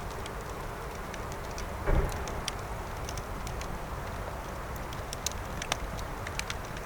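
Wood campfire crackling, with scattered sharp pops over a steady low hiss, and one dull low thump about two seconds in.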